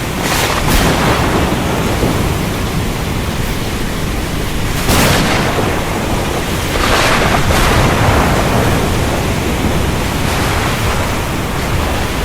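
Steady heavy rain with thunder cracking over it about four times, the sharpest about five seconds in.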